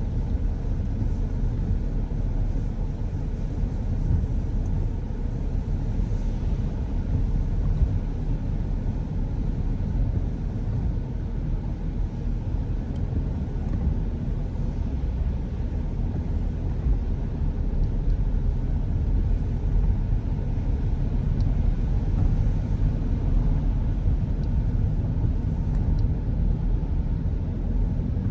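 Car driving on the road: a steady low rumble of road and engine noise that holds even throughout.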